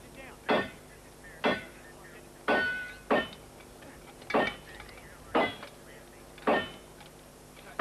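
A series of sharp knocks, roughly one a second, each ringing briefly, over a steady low hum.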